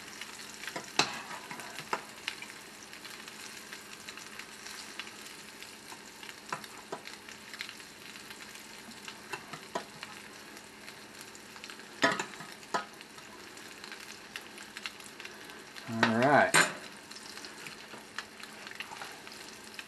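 Pierogies frying in hot butter in a pan, a steady sizzle, with scattered sharp clicks of a slotted spoon against the pot and a brief, louder wavering sound about sixteen seconds in.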